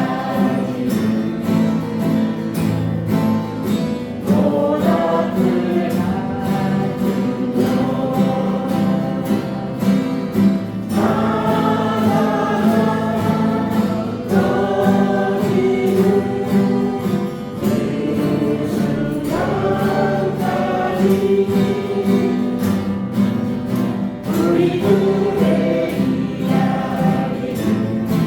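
A group of voices singing a song together over acoustic guitar accompaniment.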